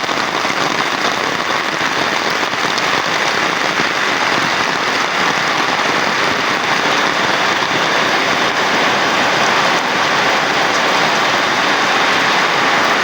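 Heavy rain falling in a steady, dense hiss, growing slightly louder near the end.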